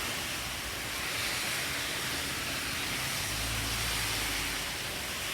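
Heavy rain pouring down as a steady hiss. A low hum rises briefly about three seconds in.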